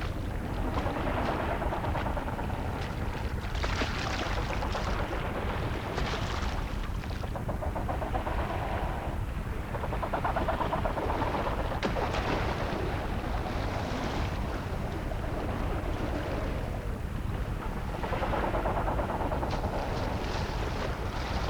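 Wind and sea surf making a steady rushing noise that swells louder every few seconds.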